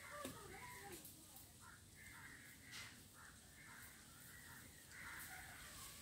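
Birds calling faintly, a run of short calls one after another.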